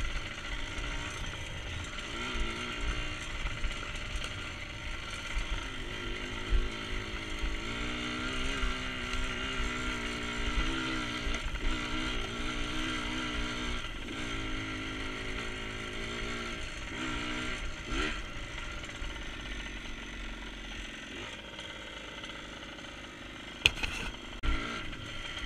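Small dirt bike engine running while being ridden on a rough dirt trail, its revs rising and falling with throttle, over steady wind rumble on the microphone. A few sharp knocks come near the end.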